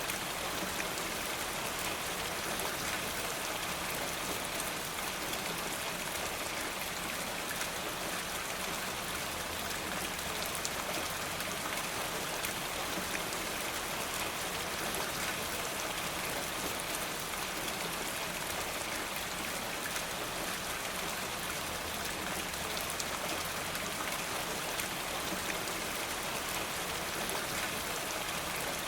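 Steady rain falling, an even hiss sprinkled with fine drop ticks.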